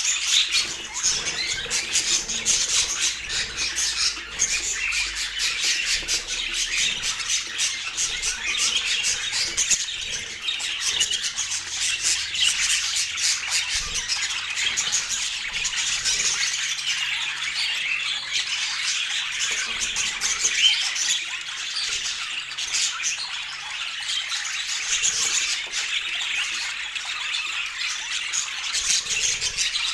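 Budgerigars chattering in a dense, continuous twitter of overlapping calls and chirps.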